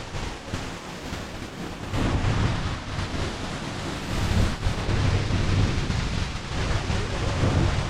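Steady rush of a large waterfall close by, with wind buffeting the microphone in gusts and getting louder about two seconds in.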